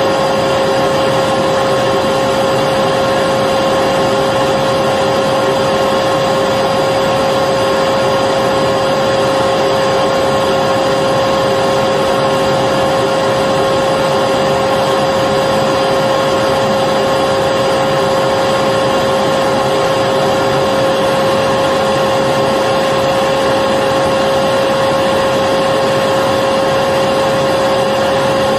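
Electric vacuum cleaner running steadily, an even rushing hiss of air with a constant motor whine that never changes.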